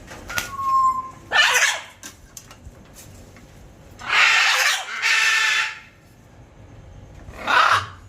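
Scarlet macaws giving harsh, raspy squawks: one about a second and a half in, two long ones back to back in the middle, and a shorter one near the end, with a brief clear whistle near the start.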